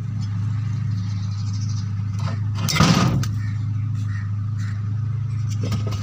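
Steady low machine hum, with a brief clatter about three seconds in.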